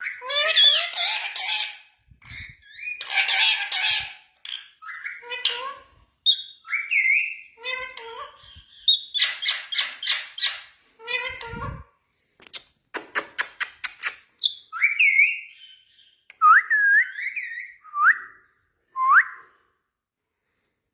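Indian ringneck parakeet calling: squawks and chattering calls, a quick run of sharp clicks about two-thirds through, then a few short rising whistles near the end.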